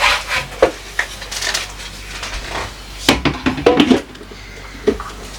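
Dishes and food containers clinking and knocking as they are handled and set down, with a cluster of sharper, briefly ringing clinks about three seconds in.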